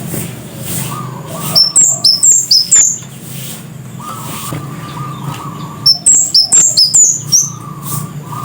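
Scarlet-headed flowerpecker calling in two quick bursts of sharp, high chirps, six or seven notes each, the first about a second and a half in and the second about six seconds in.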